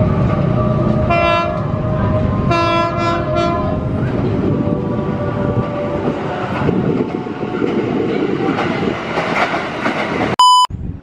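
KRL electric commuter train sounding its horn in a short toot about a second in and again in a longer, broken blast around three seconds, then rumbling past with its wheels on the rails. A short, loud electronic beep near the end.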